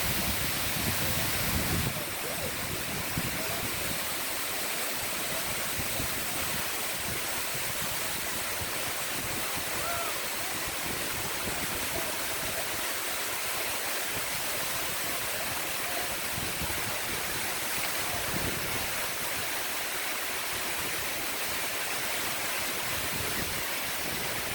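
Waterfall pouring steadily: a constant, even rush of falling water, a little louder and fuller for about the first two seconds.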